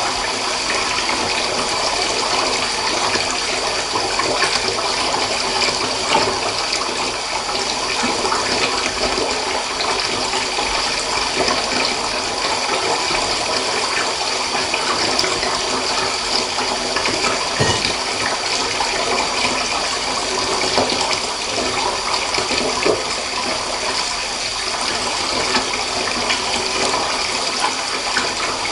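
Water running steadily from a bath tap and splashing into a tub, an even rushing without pauses.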